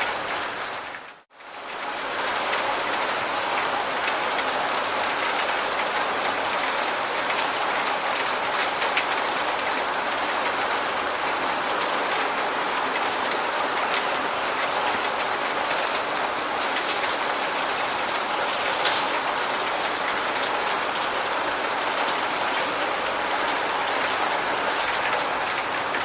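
Steady heavy rain, a dense hiss of drops pattering on a surface. About a second in it fades out almost to silence and comes straight back.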